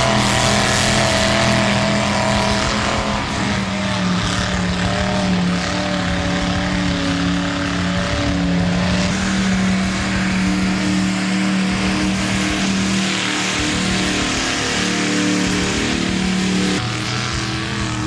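Mud truck engine running hard at high revs, its pitch stepping up and down, over a loud rushing noise.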